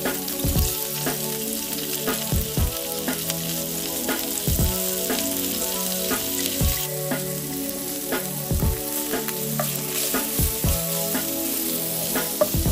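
Matchstick-cut leeks sizzling steadily in hot oil in a nonstick frying pan.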